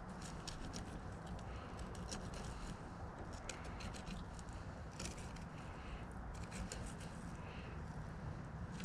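Knife cutting a back strap off an alligator gar: an irregular run of short, crisp clicks and scrapes as the blade works along the backbone, over a steady low rumble.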